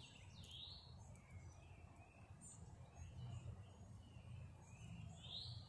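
Faint outdoor birdsong: a songbird singing short whistled notes, with a rising slurred whistle about half a second in and again near the end, over a low steady rumble.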